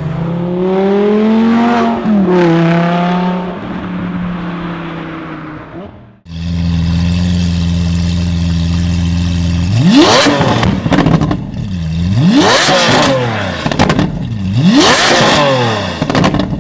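Audi R8 V10 Spyder's V10 engine through a Fabspeed Supersport exhaust. First it accelerates with rising pitch, shifts gear about two seconds in, and fades away. Then it idles and is revved three times in sharp blips.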